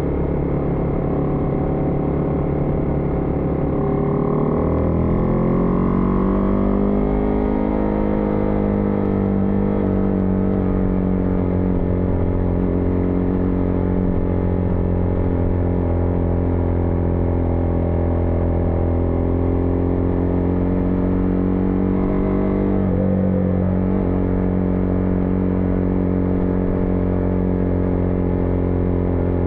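Husqvarna Vitpilen 401's single-cylinder engine under way, its pitch rising as the bike accelerates about four seconds in, then running steady, with a brief dip and recovery in pitch about 23 seconds in.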